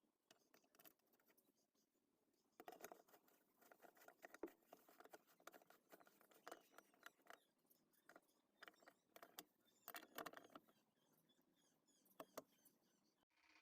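Near silence, with faint scattered clicks and scratching that are busiest through the middle of the stretch.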